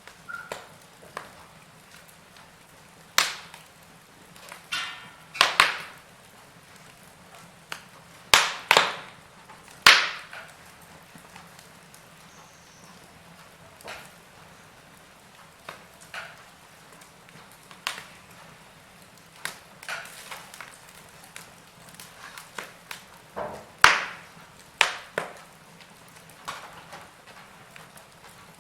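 Fire in a fireplace crackling: scattered sharp pops at irregular intervals, some much louder than others, over a faint steady hiss.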